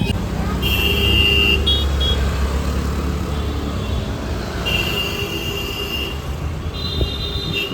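City street traffic: motor vehicles running with a steady low rumble, and vehicle horns honking four times, two of them held for about a second.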